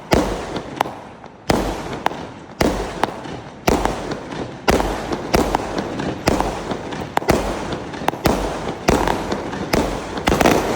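A 0.8-inch, 36-shot fireworks cake firing in quick succession, with sharp launch and burst bangs about two a second, each trailing off in a noisy crackle.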